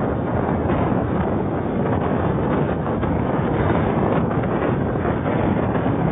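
Strong sandstorm wind blowing hard over the microphone, a steady loud rushing and buffeting.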